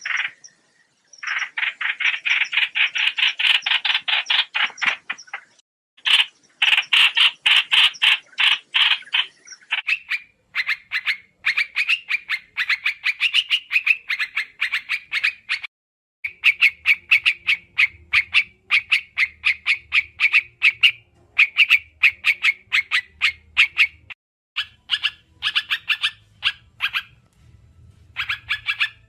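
Trao trảo bird calling in long runs of rapid, evenly repeated notes, about ten a second, each run lasting several seconds with short breaks between; a lure call used to attract the birds. A faint low hum comes in about halfway through.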